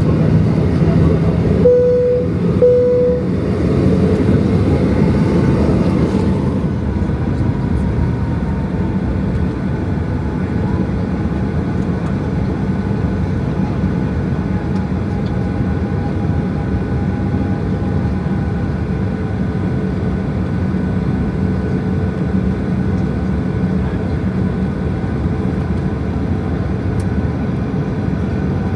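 Steady rumble of a Boeing 737-800's CFM56 engines and airflow heard inside the cabin, with two short chime tones about two seconds in. The rumble eases slightly after about six seconds.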